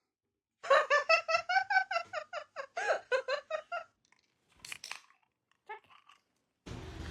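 Quick, high-pitched laughter, a run of about five "ha"s a second lasting some three seconds, followed by a few short sharper sounds. A steady hiss comes in near the end.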